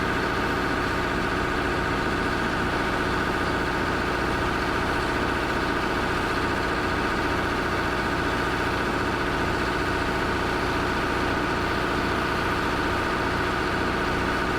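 Heavy equipment engine running steadily at a constant pitch, with no change in speed or load.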